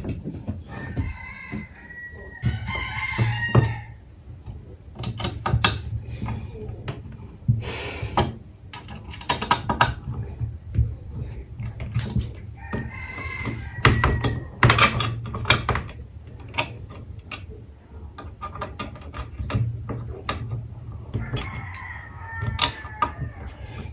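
A rooster crowing three times, each call lasting two to three seconds, about ten seconds apart, over repeated sharp knocks and clatter from workshop tools and wood.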